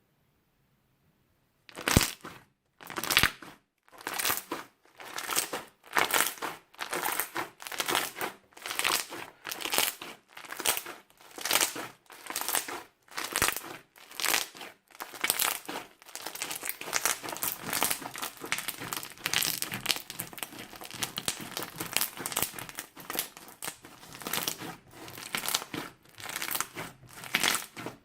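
Crunchy slime being squeezed and pressed by hand, crackling and crinkling with each squish. It starts about two seconds in, one or two squishes a second, and turns into a denser, nearly continuous crackle in the second half.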